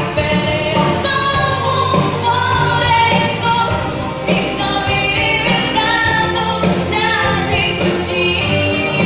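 A young girl singing a Ukrainian pop song over a recorded band backing track.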